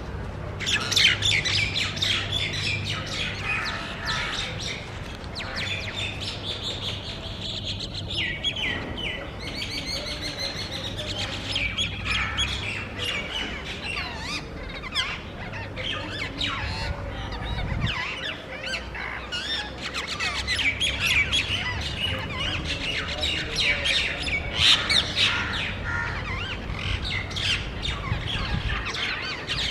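Rose-ringed parakeets calling: a continuous run of shrill, overlapping screeches and squawks from several birds.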